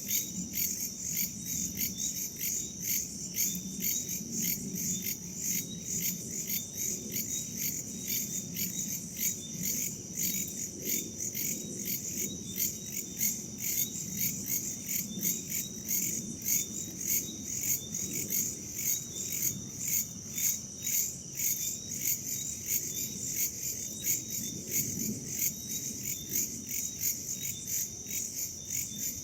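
Chorus of crickets and other night insects, a steady high trill pulsing evenly a few times a second, over a soft low rush of wind.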